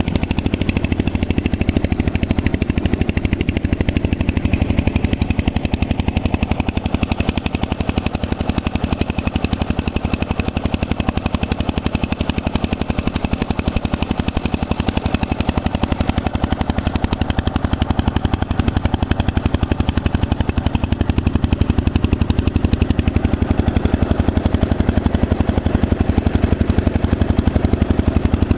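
Boat engine running steadily at a constant speed, a loud, rapid, even chugging.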